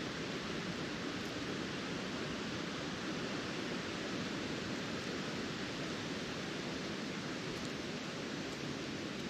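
Steady rushing wind blowing through trees and foliage, an even hiss with no distinct events.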